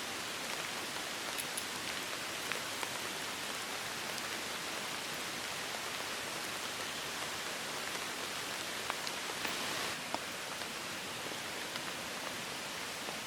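Steady rain falling, with scattered single drops tapping close by.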